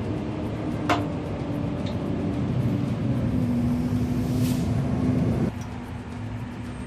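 Electric motor of a machine-shop machine humming steadily, with a sharp click about a second in. The hum drops off abruptly about five and a half seconds in, leaving a quieter hum.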